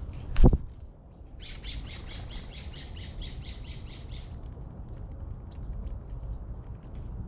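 A sharp thump about half a second in, the loudest sound, then a bird giving a quick run of about a dozen harsh calls, about four a second, lasting some three seconds.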